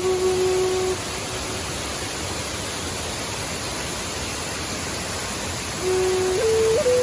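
Steady rushing of a waterfall. A held musical tone sounds over it for about the first second and comes back near the end, stepping up in pitch.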